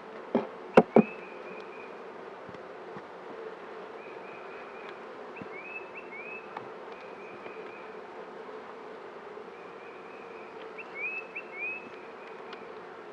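Honey bee colony in an opened hive buzzing steadily. A few sharp knocks about a second in, and short high chirps twice, in the middle and near the end.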